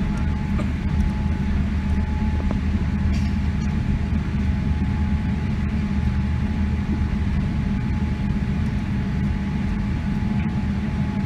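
Steady low rumble in the cabin of a Boeing 777-300 airliner rolling on the ground after landing, with a thin steady whine running through it.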